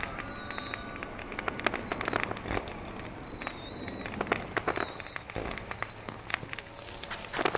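Fireworks going off: a run of sharp crackling pops, over which repeated whistles each fall in pitch, one after another.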